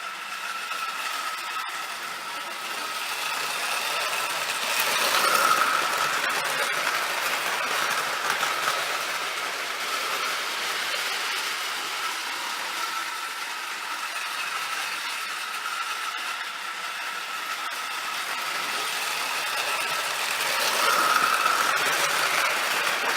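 Marx No. 999 toy steam locomotive running laps on O-gauge track pulling metal cars: a steady electric motor whine with wheels rattling on the rails. It grows louder twice, about five seconds in and again near the end, as the train passes close.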